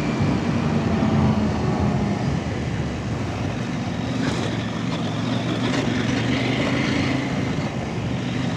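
Off-road motorcycle engine running steadily under way on a trail, with a rushing hiss over it and a couple of brief knocks partway through.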